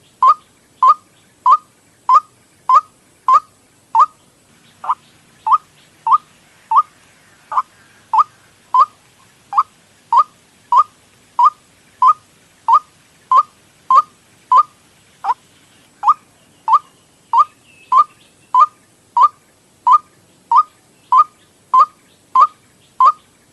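White-breasted waterhen (ruak-ruak) call played as a bird-trapping lure: one short, sharp note repeated evenly, about three every two seconds, with a brief break about four seconds in.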